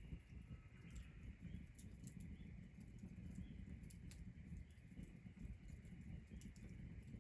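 Faint crackling of a wood fire: scattered sharp pops at irregular moments over a low rumble and a steady faint high drone.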